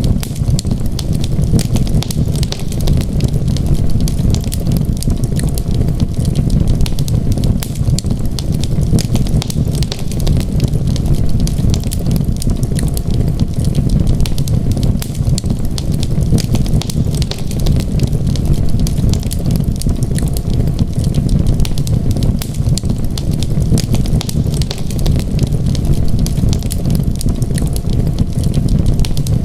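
Wood fire crackling in a fireplace, a constant scatter of small pops and snaps over a steady low rumble.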